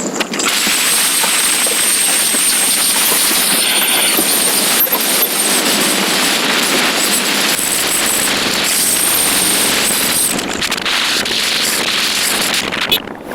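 Steady rushing wind and road noise from riding a motorcycle at speed, with wind buffeting the microphone. A thin high whine runs through most of it, and the noise dips briefly near the end.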